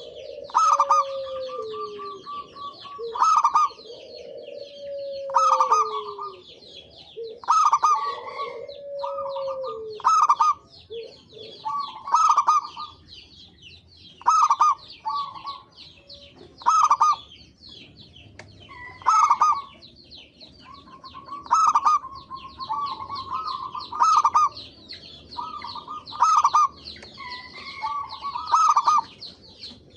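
Zebra doves (perkutut) cooing in bursts of quick, rhythmic coo notes, repeated about every two to three seconds, over constant high chirping of small birds. In the first ten seconds there are also three lower, drawn-out falling calls.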